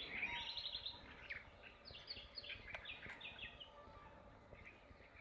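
Small birds calling: quick series of high, repeated chirps, loudest in the first second and again about two to three seconds in, fading toward the end.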